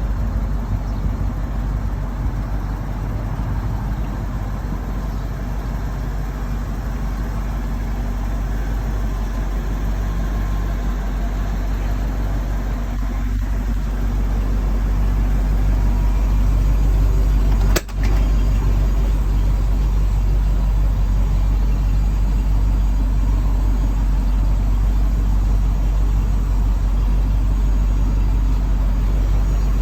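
A 1997 Ford F700 dump truck's engine running steadily, growing louder about halfway through, with a brief break shortly after.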